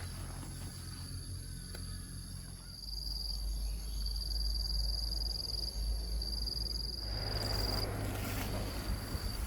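Insects droning in a steady high-pitched note that strengthens and pulses from about three seconds in until near the end, over a low steady rumble.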